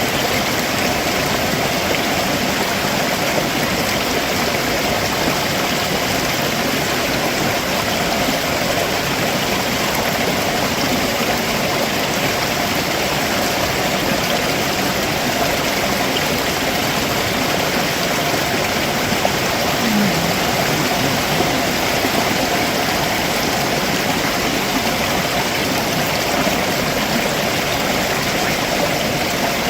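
Stream water running and splashing over rocks below a waterfall, a steady, even rush.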